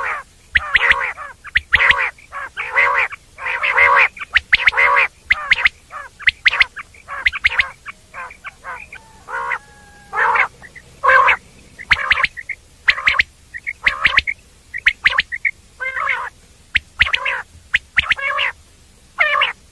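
Common quail calling in a dense, irregular series of short, raspy notes with brief pauses between bouts.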